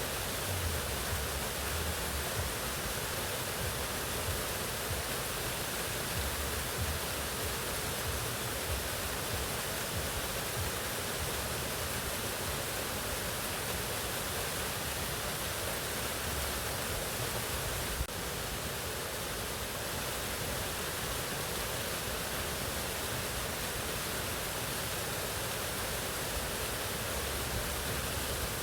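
Mountain waterfall: water falling and rushing in a steady, unbroken roar of white noise.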